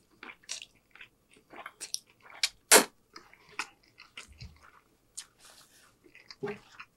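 Close-miked chewing of a mouthful of spaghetti: irregular wet mouth clicks and smacks, one sharp, loud smack about three seconds in. A brief rustle of a paper napkin near the end.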